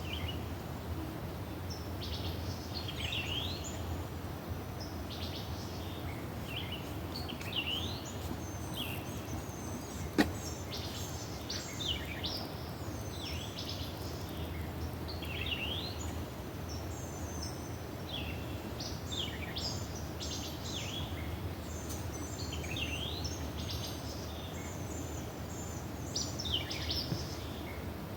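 Wild songbirds chirping and calling over and over, with short sweeping notes, above a steady low outdoor rumble. A single sharp click sounds about ten seconds in.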